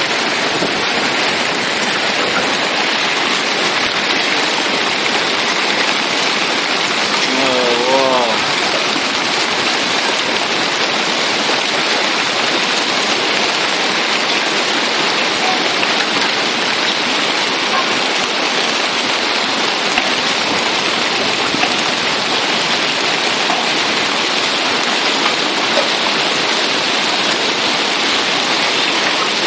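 Heavy rain falling steadily in an even hiss. About eight seconds in, a short wavering call sounds briefly.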